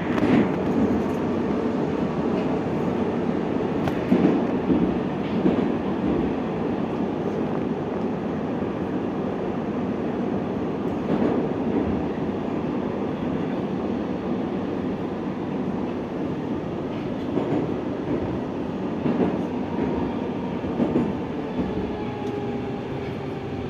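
Moscow metro 81-740.1 train running through a tunnel, heard from inside the carriage: a steady rumble with occasional wheel knocks. Near the end a faint electric whine falls in pitch as the train slows for the next station.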